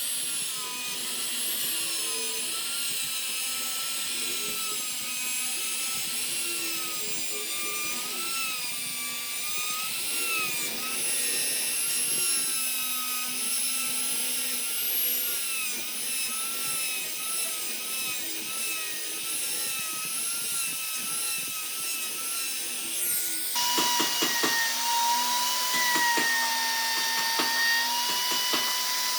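Electric power tool working wood, its motor pitch wavering up and down as the load changes. About 23 seconds in the sound shifts to a steadier tone with more hiss and scattered clicks.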